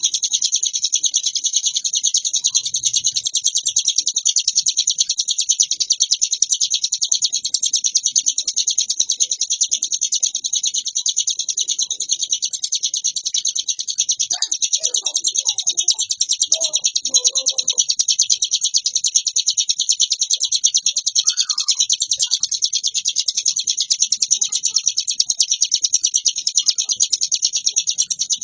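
Ciblek gunung songbird singing a continuous rapid, high-pitched warbling song without a break, the steady 'ngebren' singing that birdkeepers prize.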